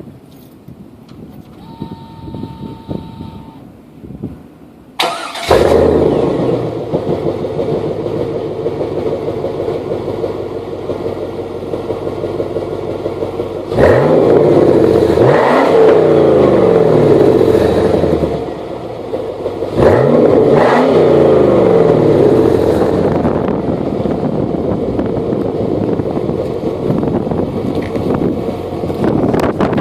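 A 1999 Camaro Z28's 5.7 L LS1 V8, breathing through a Spintech exhaust, cranks and fires about five seconds in and settles to a steady idle. Around the middle it is revved in two spells of quick blips, the pitch climbing and falling back to idle each time, and then it idles on.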